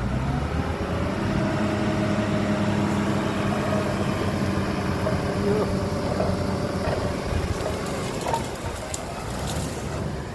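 Heavy diesel engine of earthmoving machinery revving up and then running steadily under load. A few light clatters come near the end.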